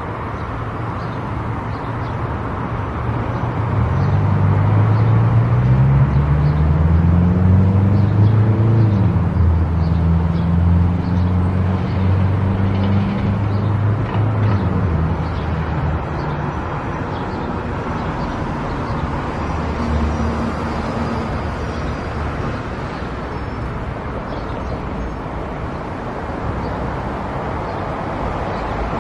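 Car driving on the road: steady tyre and road noise, with the engine note climbing as the car accelerates from about four seconds in, holding, then easing off about halfway through.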